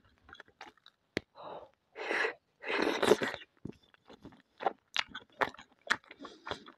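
Close-up mouth sounds of someone eating boiled pelmeni dumplings dipped in sour-cream sauce: wet chewing and lip smacks, with two longer breathy sounds about two and three seconds in.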